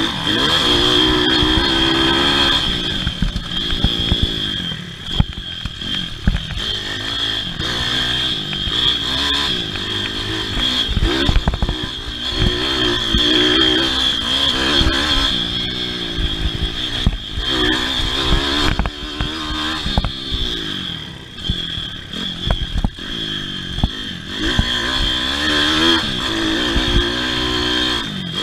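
Pit bike's small single-cylinder four-stroke engine racing, the revs rising and falling again and again as the throttle is worked, with knocks and clatter over rough ground.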